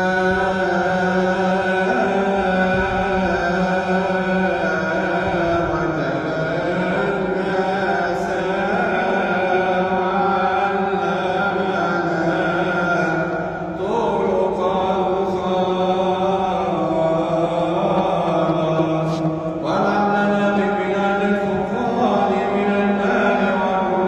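Solo male voice chanting a Coptic Orthodox hymn in a long melismatic line, holding each note for several seconds and moving to a new pitch now and then.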